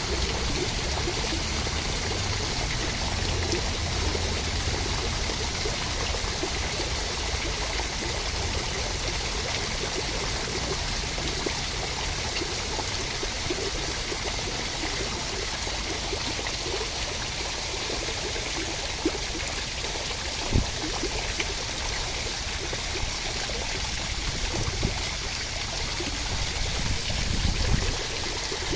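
Steady rain, an even rushing hiss of water, with a few light taps about two-thirds of the way through.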